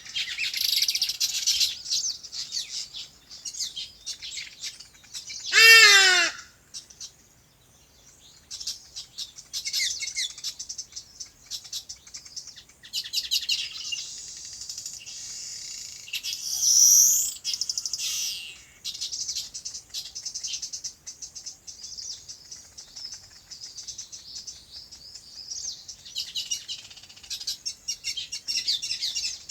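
Many small birds chirping and twittering in dense, rapid, high-pitched runs, thinning briefly at times. About six seconds in, one short, loud, lower call from a single bird or farm animal cuts through.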